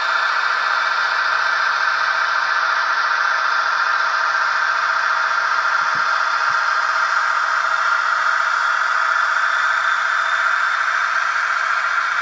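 Model locomotive sound decoder playing a steady diesel engine running sound through the small loudspeaker of an H0 model of the BLS Am 843 diesel locomotive, thin and hissy, with a couple of faint ticks about halfway through.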